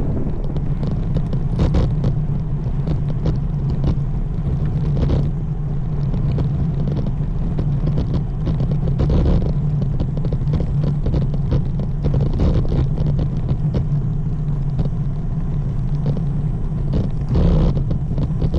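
Wind rushing over the microphone of a moving road bike, with a steady low rumble and a few louder gusts.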